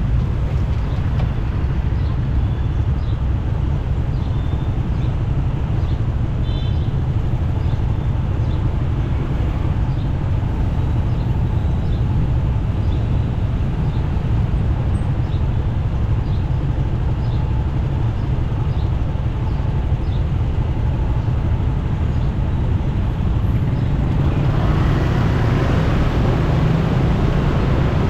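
Motorcycle riding in city traffic: a steady low engine and road rumble, with surrounding traffic. About three-quarters of the way through, a broader rushing hiss builds and stays.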